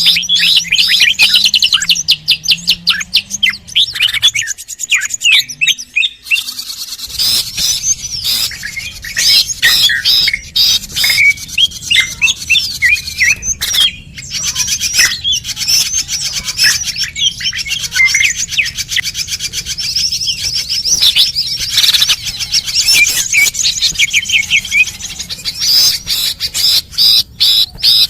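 Bird-lure recording of small birds calling: a dense, unbroken run of rapid high chirps and trills, many notes a second, briefly thinning about halfway through.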